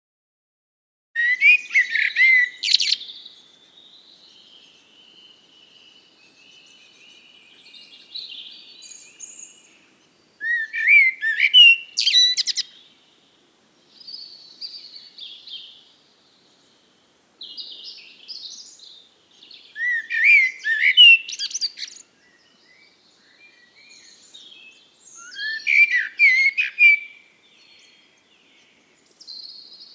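Songbirds singing: loud, varied song phrases come every several seconds, with softer twittering in between.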